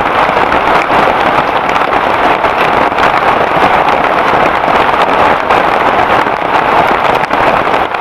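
Heavy rain pouring down steadily: a loud, even hiss.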